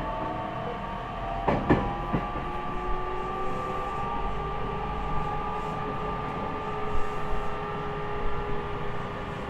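Interior running sound of an E501 series EMU motor car: the hum of the running train with the Toshiba IGBT inverter and traction motor whine, its tones creeping slowly up in pitch as the train gains speed. A few sharp knocks from the wheels over rail joints come between one and two seconds in.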